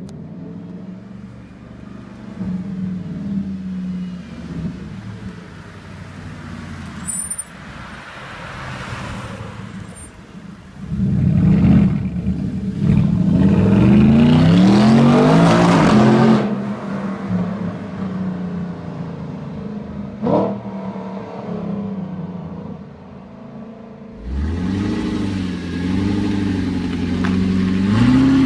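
Audi R8's 4.2-litre V8 engine and exhaust running, first low and steady, then accelerating hard for several seconds with the pitch climbing and dropping back at each gear change. It settles again, gives a single sharp pop, and revs up once more near the end.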